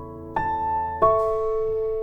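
Slow background piano music: two chords struck about two-thirds of a second apart, each left to ring and fade.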